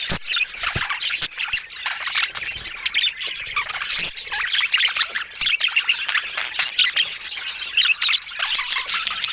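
Budgerigars chattering: many short chirps and squawks overlapping without a break, with a few sharp clicks among them.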